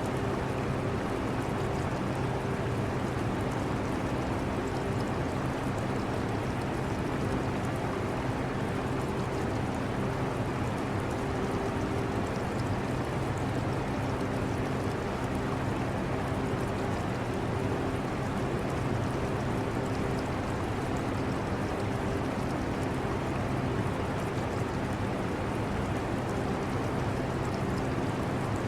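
Air conditioner running with a steady hum, mixed with the continuous trickle of aquarium water.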